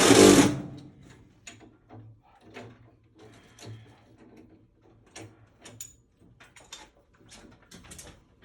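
A loud rushing noise that cuts off about half a second in, followed by scattered light clicks and knocks, like parts or tools being handled.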